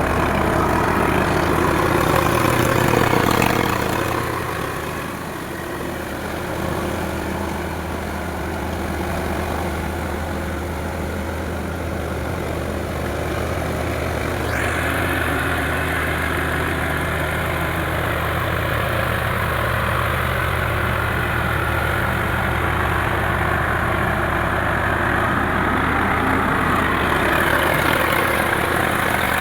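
Diesel tractor engine running steadily, its loudness and tone shifting a few times: louder a few seconds in, dipping briefly, then taking on a brighter, higher edge about halfway through.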